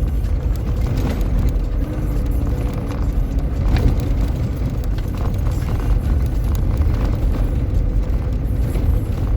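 A motor vehicle driving along a desert trail: a steady low engine and tyre rumble with occasional light knocks and rattles.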